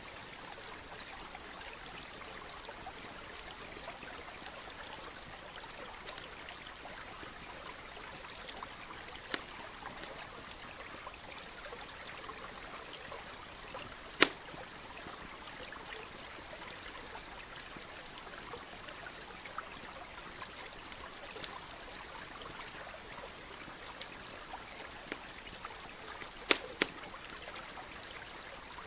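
Stream running steadily, with a campfire crackling over it: scattered sharp pops, one loud snap about halfway through and two more near the end.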